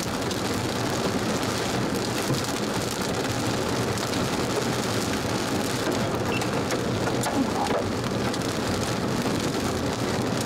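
Heavy thunderstorm rain with hail pelting down: a steady hiss of rain with a few sharp ticks of hailstones landing.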